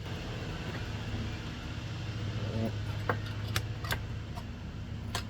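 A few light clicks and taps of a hose clamp being handled and fitted onto a fuel line, over a steady low hum.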